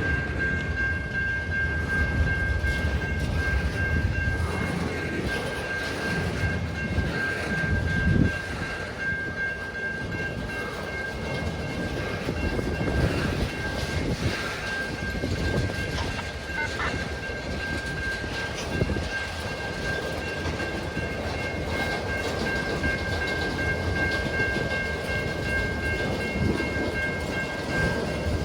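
Freight train rolling past: a steady rumble with clatter of wheels over the rail joints, a sharp knock about eight seconds in, and a few steady high-pitched tones throughout.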